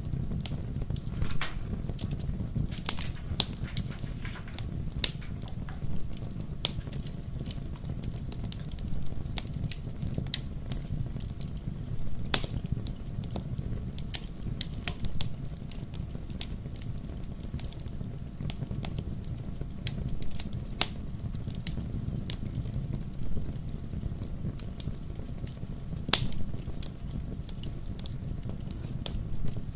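Wood fire crackling in a fireplace: a steady low rumble of the flames with frequent irregular sharp pops, a few louder snaps among them.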